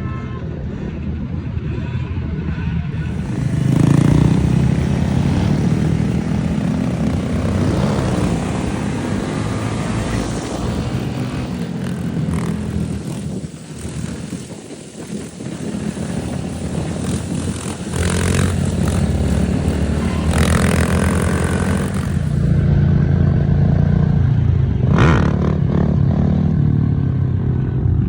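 Small-displacement mini bike and motorcycle engines running, growing louder about four seconds in, easing off around the middle, then louder again.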